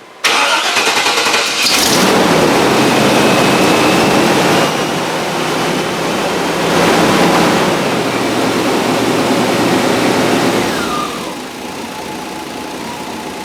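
1995 Chevy Tahoe's throttle-body-injected V8 cranking briefly, catching and revving after a repair of its leaking exhaust, then dropping about 11 seconds in to a rough, low idle of about 300 RPM.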